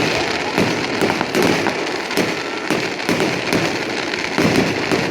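Fireworks display going off: a steady run of bangs, about two to three a second, with crackling in between.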